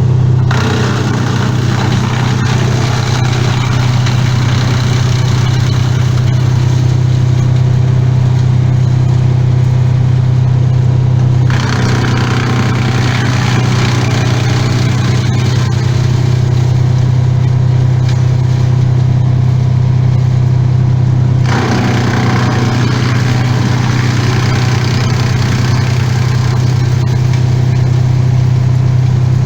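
A small engine running steadily at constant speed, with the higher-pitched noise over it changing in character about a third and two thirds of the way through.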